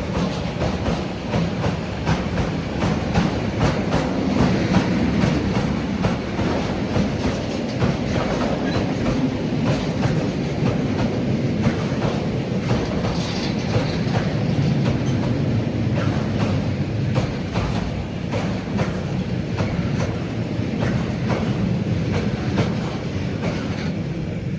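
Train hauled by a class 140 electric locomotive rolling past, its wheels clattering over the rail joints in a steady, continuous run of clicks.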